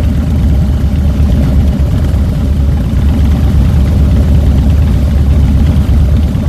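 Harley-Davidson Fat Boy's air-cooled Twin Cam 96 V-twin engine running steadily, heard close up from the handlebars, its deep, even rumble filling the sound.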